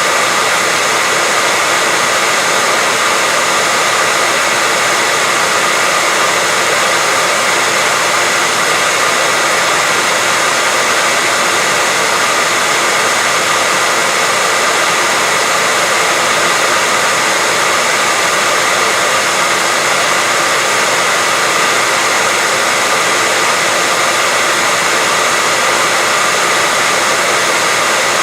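Steady, unchanging white noise: an even hiss, strongest in the upper range with little low rumble, and a faint steady tone running through it.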